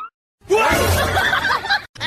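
Short burst of laughter-like vocal sounds over a noisy background, starting about half a second in and cutting off suddenly just before the end.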